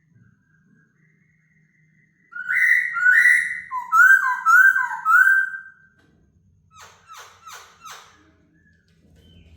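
Laughingthrush singing: a loud run of about six clear whistles, each sliding down in pitch, followed by four fainter, raspy notes.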